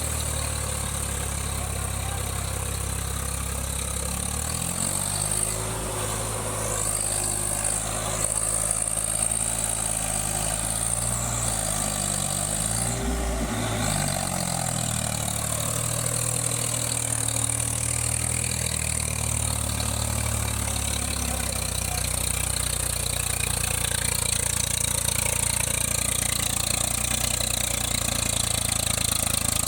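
Tractor engine running, its speed rising and falling several times through the middle, then settling to a steady run.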